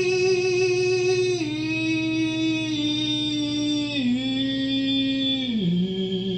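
Music: one long wordless sung note with vibrato, sliding down in pitch in four steps, over a steady held backing chord.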